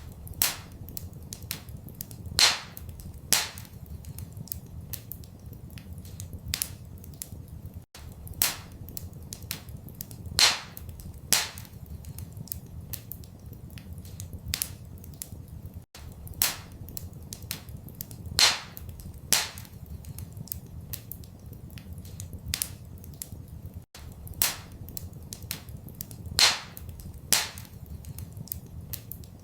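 Wood fire crackling in a fireplace: sharp pops and snaps, a few louder cracks every several seconds, over a steady low rumble. The same pattern of pops repeats about every eight seconds, as a short loop.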